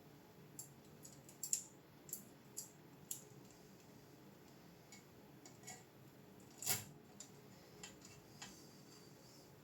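Scattered small, sharp clicks and taps at an irregular pace, a dozen or so, with one louder click about two-thirds of the way through, over faint room hiss.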